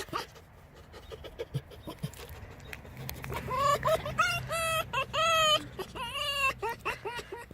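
Pet fox giving its excited 'laughing' call: a rapid run of short, high, cackling yelps that starts about three seconds in and goes on to near the end.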